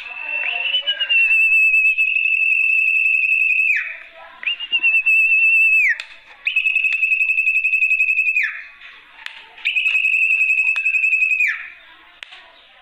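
Sertu (zepo) bird lure call: four long, high, wavering whistles, each ending in a quick falling slide, with softer scratchy chattering in the gaps between them.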